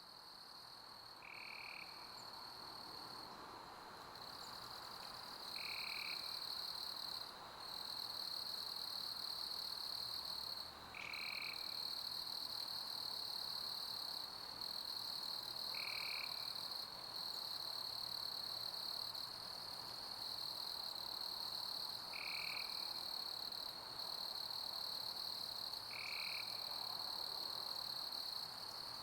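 Summer crickets chirping in a steady, high, continuous trill that dips out briefly a few times, with a short lower call every four to six seconds, over a soft even hiss of pink noise.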